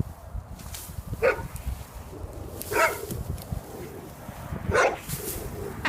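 A dog barking: three single barks, about one and a half to two seconds apart.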